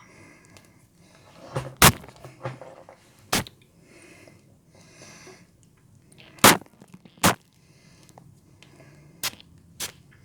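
About half a dozen sharp ASMR taps or clicks close to the microphone, spaced irregularly, with faint scratchy rustling between them.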